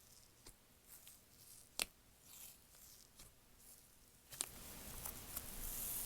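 Slime being squished and stretched by hand: scattered small sticky clicks and pops, one sharper pop about two seconds in, then a steadier hissy rustling from about four seconds in.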